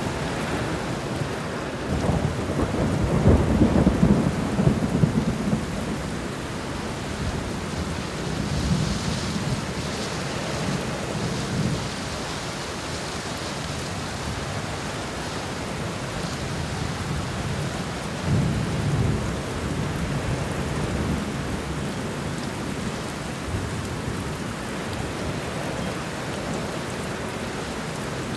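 Thunderstorm: steady heavy rain with rolling thunder rumbling low, swelling about two seconds in and again about two-thirds of the way through.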